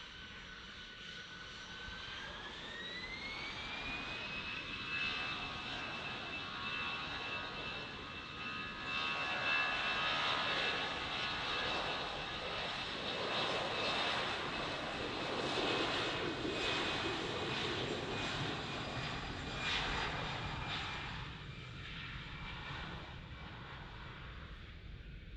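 Jet airliner's engines on takeoff: the engine whine rises in pitch over a couple of seconds as they spool up to takeoff thrust, then holds steady over a loud roar. The roar builds and then eases off near the end.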